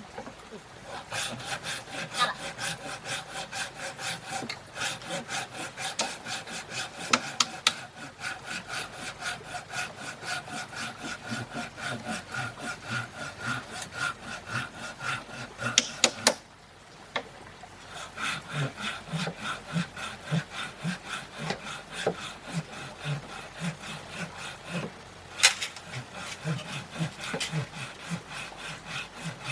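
Hand saw cutting through wood in steady back-and-forth strokes, about three a second, with a brief pause about sixteen seconds in before the sawing resumes.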